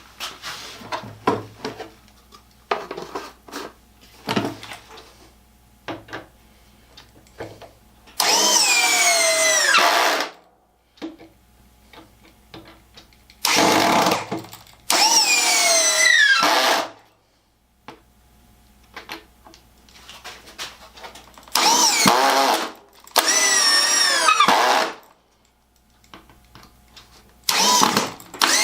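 Cordless drill driving beeswax-coated wood screws into a wooden base in six runs of one to two seconds each, the motor's pitch sinking during each run as the screw bites in. Light handling clicks and knocks fall between the runs.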